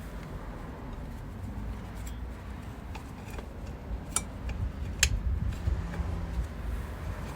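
Light metallic clicks and clinks of hand tools and metal parts being handled, scattered and irregular, the sharpest about four and five seconds in, over a steady low rumble.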